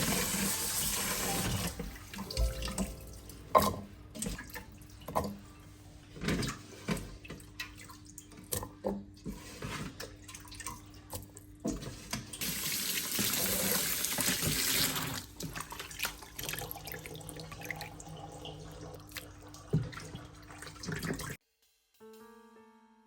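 Water tap running into a sink in two spells, near the start and again about halfway through, with short knocks and clinks of things being handled at the sink in between; the sound cuts off suddenly near the end.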